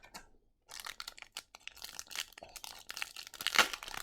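Crinkling and tearing of a 2022-23 MVP hockey card pack's foil wrapper being ripped open, a dense run of crackles starting just under a second in, with the sharpest crackle near the end.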